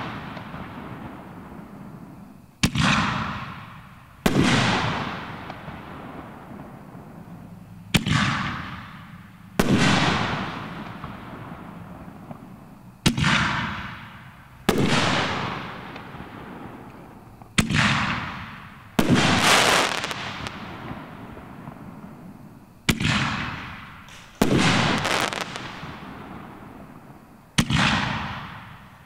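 Reloadable firework canister shells fired one at a time: about every five seconds a pair of loud bangs about a second and a half apart, the shell launching from its mortar tube and then bursting in the air. Each bang trails off in a long echoing fade.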